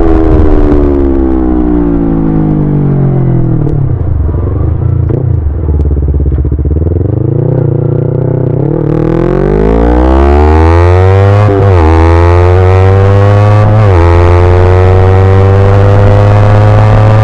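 Yamaha YZF-R25 parallel-twin engine winding down in pitch as the bike slows, then accelerating hard with rising revs. It shifts up twice, about two-thirds of the way through and again a couple of seconds later.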